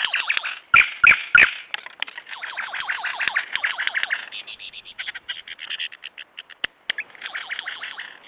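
Birds giving rapid, harsh chattering and squawking calls, many short notes sliding downward in pitch. Three loud sharp knocks come close together about a second in.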